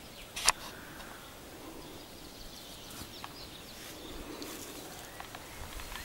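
Faint birdsong: scattered short high chirps over a low steady hiss, with one sharp click about half a second in.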